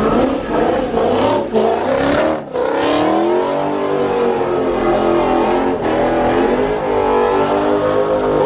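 Car engine revved hard and held at high revs, the pitch wavering; the revs drop sharply about two and a half seconds in, then climb again.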